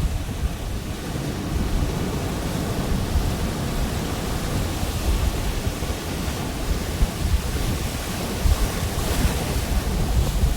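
Pacific Ocean waves breaking and washing on the beach, with wind buffeting the microphone; one wash swells a little brighter towards the end.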